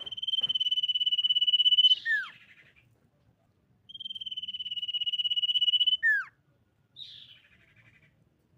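Common iora singing: two long, fast-pulsed trills held at one high pitch for about two seconds each, growing louder, each ending in a quick falling note, then a short buzzy note near the end.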